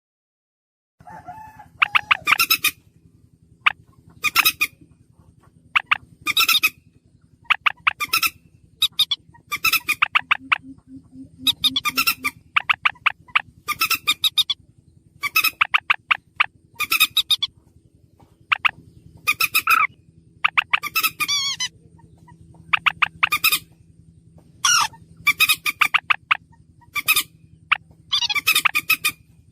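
Common moorhen calling: short, harsh, rattling bursts of rapid clicking notes, repeated about every one to two seconds.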